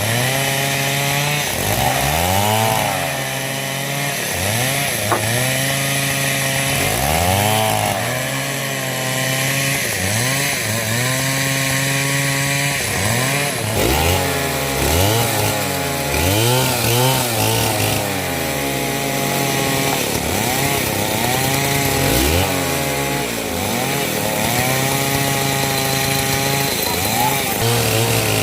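Stihl MS 070 two-stroke chainsaw cutting coconut wood at full throttle. Its engine note repeatedly drops under load and climbs back as the chain bites and frees.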